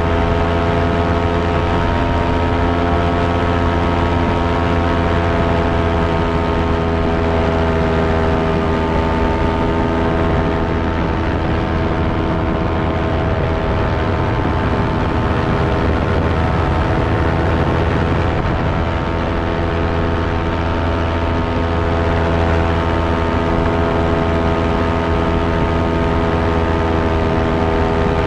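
Electric fan running at a steady speed: an even, unchanging motor whir with a row of steady overtones.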